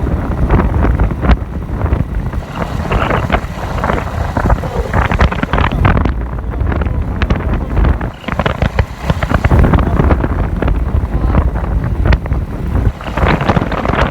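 Wind buffeting the microphone: a heavy, constant low rumble that swells and dips in gusts, with crackling through it.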